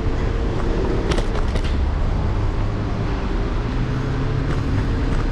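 Electric scooter riding along a city street, heard from its handlebars: a thin motor whine that rises a little in pitch and then holds steady, over a low rumble of road and traffic, with a few sharp rattles and clicks about a second in.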